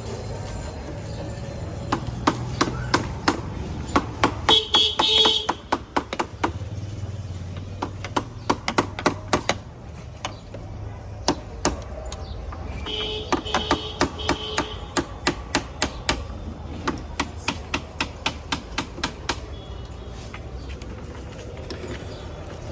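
Hammer striking metal on a motorcycle under repair: runs of sharp knocks about five a second, with pauses between runs, and a ringing metallic note twice.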